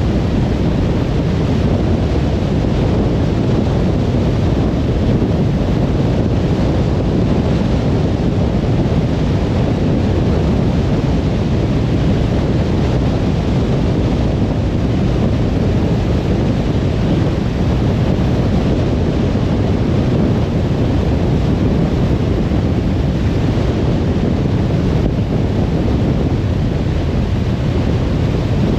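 Car driving at steady speed on a motorway: an even, unbroken rumble of tyre and road noise, heaviest in the low end.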